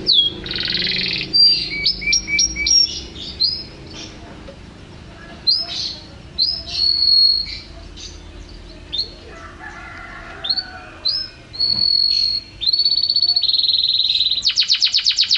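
Domestic canary singing a varied song: separate chirps and short whistled sweeps with brief pauses, then a long, even trill, and a very fast rolling run of repeated notes near the end.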